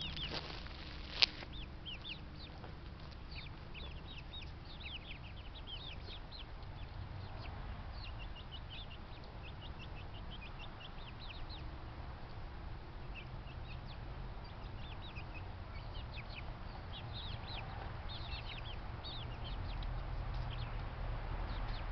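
Yard birds chirping continuously, many short high calls sliding downward in pitch, over a steady low hum. A single sharp click about a second in.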